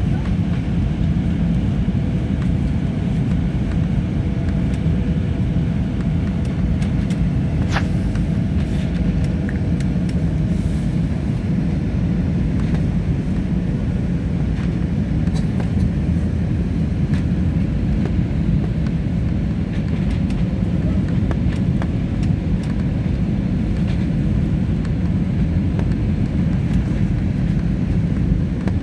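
Steady low rumble of an Airbus A320's engines and airflow heard inside the passenger cabin during the approach to landing, with faint steady engine tones above it. A single short click comes about eight seconds in.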